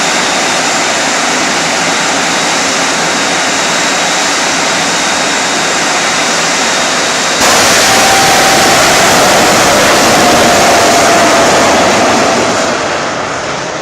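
Jet engine running with a steady roar and a thin high whine; it gets suddenly louder about halfway through, then fades near the end.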